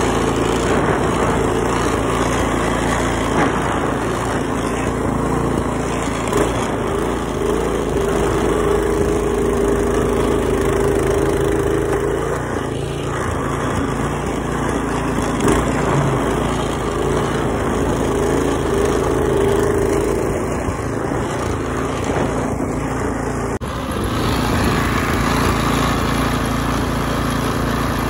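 A motor running steadily under a broad rushing noise, with a sudden change in the sound's character about three quarters of the way through.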